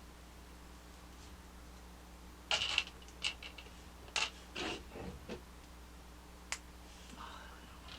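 Small plastic toy parts being handled and clicked together: a cluster of clicks and rustles a few seconds in, then one sharp click near the end.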